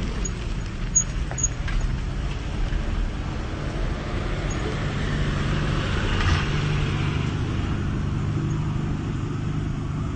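An engine running steadily with a low rumble and hum.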